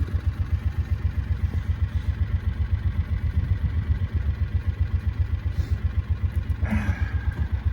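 Small vehicle engine running steadily while riding, heard as a fast, even low throb.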